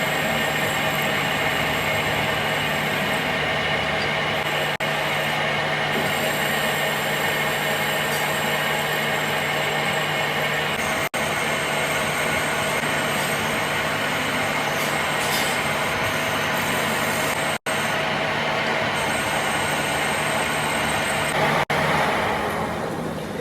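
Steady mechanical running noise from a metalworking machine, a dense hiss with a constant hum and whine, breaking off for an instant four times.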